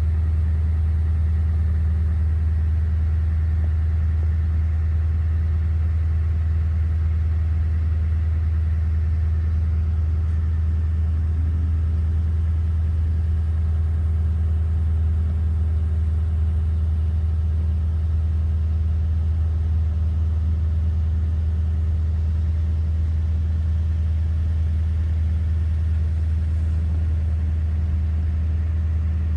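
Car engine running with a steady low hum that stays level throughout, like idling.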